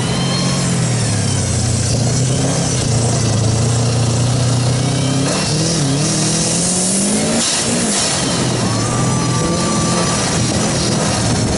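Car engine heard from inside the car on a gymkhana run, held at high revs, dropping about six seconds in as the car brakes for a turn, then revving up again as it accelerates, over steady road and wind noise.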